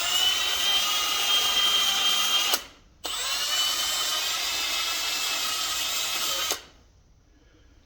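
Handheld power drill running in two bursts, about two and a half and three and a half seconds long with a brief stop between, whining steadily as it scrubs and roughs up a metal ground-contact surface to clean it. It stops about a second before the end.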